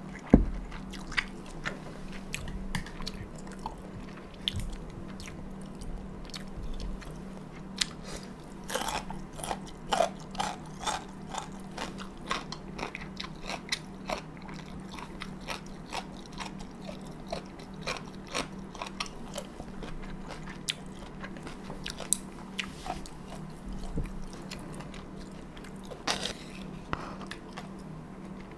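Close-miked chewing of cold buckwheat noodles (momil), with many short wet mouth clicks and smacks throughout. A sharp knock comes just after the start, and a steady low hum runs underneath.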